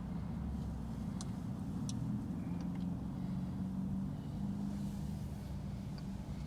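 Steady low rumble of a car's engine and road noise heard from inside the moving vehicle, with a couple of short sharp clicks about one and two seconds in.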